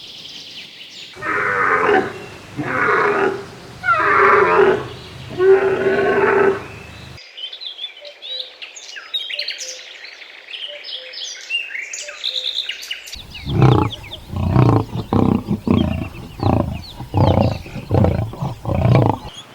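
Big cat roaring: four long calls, then a break filled with bird chirps, then a quick run of short, deep grunting calls near the end.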